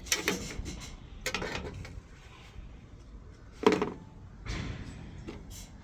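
A handful of sharp knocks and clatters of hard objects being handled, the loudest about two-thirds of the way through.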